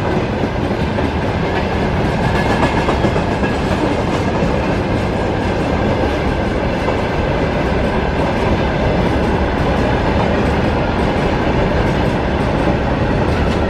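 A freight train's wagons, covered hoppers and open gondolas, rolling past close by: a steady, loud noise of steel wheels running over the rails.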